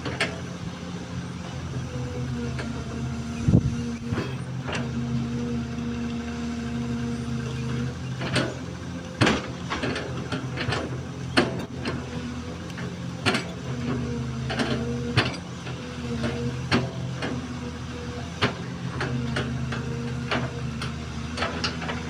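XCMG XE215C hydraulic excavator's diesel engine running steadily, with a hydraulic whine that comes and goes in stretches of a few seconds as the machine works. Sharp knocks and clanks come every second or two.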